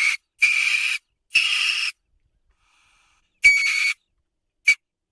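Weasel calling: harsh, raspy squeals about half a second each, three in quick succession, then after a pause another one and a short final squeak.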